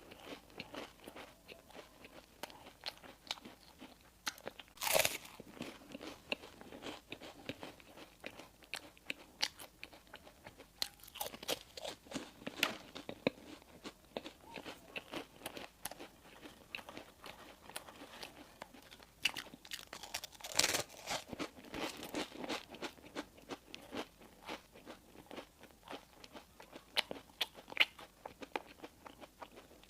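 Close-miked eating: crisp bites and steady chewing of sesame burger buns and wraps, a dense crackle of small crunches. The loudest bites come about five seconds in and again about twenty seconds in.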